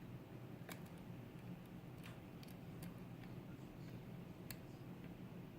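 Faint metallic clicks, scattered and irregular, of a lock pick and tension wrench working the pins in a challenge pin-tumbler lock, over a steady low hum.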